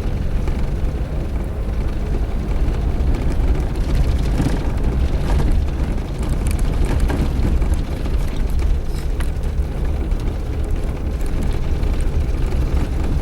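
Suzuki Jimny driving on a dirt road: a steady low rumble of engine and road, with scattered short knocks and rattles.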